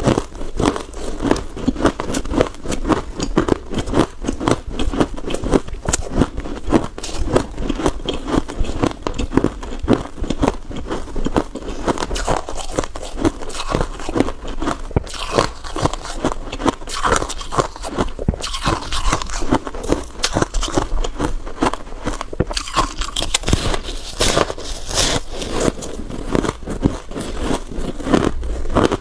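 Freezer frost being bitten and chewed close to the microphone: a continuous run of crisp crunches and crackles.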